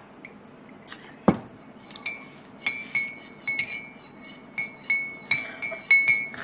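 Small hard objects clinking against each other and a dish: one sharper knock about a second in, then about a dozen light clinks coming faster toward the end, many leaving a brief high ring.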